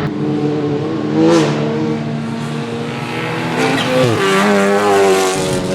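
Touring race car engines running hard at speed, several engine notes overlapping, their pitch dipping and climbing with gear changes about a second in and again around four seconds in.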